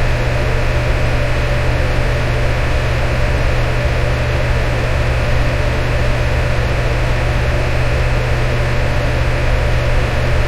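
Electric fan running steadily: an even rush of air over a strong low hum.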